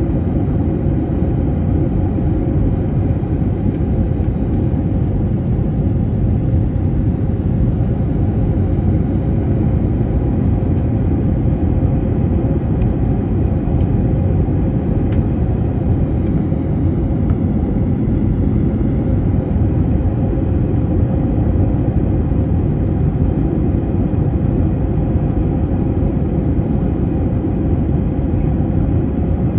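Airliner cabin noise: a steady, loud low rumble of the jet engines and airflow heard from inside the cabin, with a faint steady hum.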